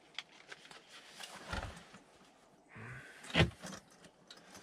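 Gear being handled and packed into a backpack: rustling, small clicks and a couple of thuds, with one sharper knock about three and a half seconds in.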